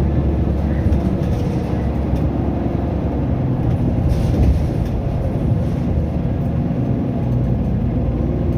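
Mitsubishi Fuso Aero Star city bus (LKG-MP37FKF) under way, its diesel engine running steadily with road noise, and a brief rattle or bump noise about four seconds in.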